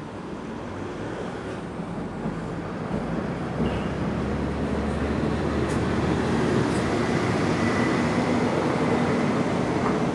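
Electric commuter train running past on the rails, its rumble growing louder over the first several seconds and then holding, with a faint steady whine in the second half.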